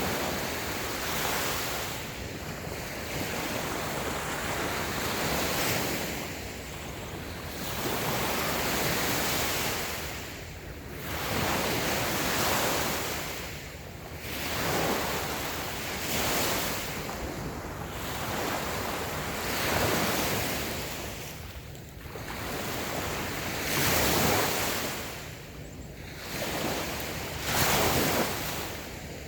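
Small waves washing onto a sandy beach, the surf swelling and ebbing every few seconds, with some wind on the microphone.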